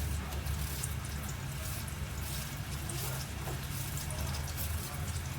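Food frying in hot oil in a cooking pot: scattered crackling sizzle over a steady low hum.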